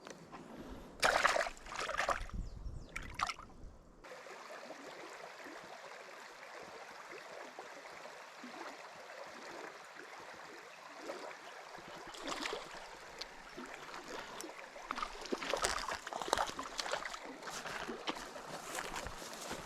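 A small stream running steadily, with a few sharp noises about a second in and more scattered through the second half.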